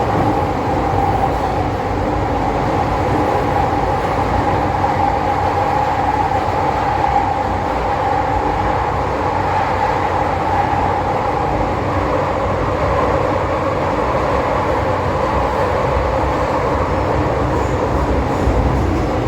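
MTR Kwun Tong line M-Train running steadily between stations, heard from on board: a continuous hum with several steady tones over the rumble of wheels on track.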